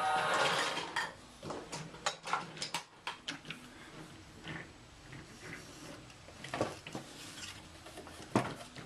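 Scattered light clicks and knocks of toy train pieces being handled and pushed along the track, with a sharper knock near the end. Music ends about a second in.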